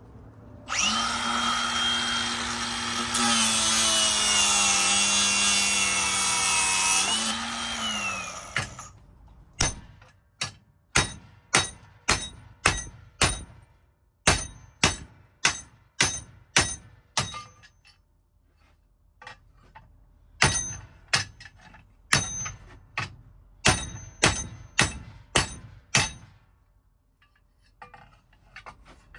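An electric power tool runs steadily for about eight seconds and winds down. Then a hammer strikes metal again and again, about two blows a second, each with a short ringing note, with a brief pause about midway.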